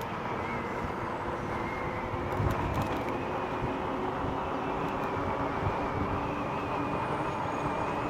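Steady road noise while riding an e-bike beside a busy road: a continuous rumble of traffic and riding with a faint steady whine over it.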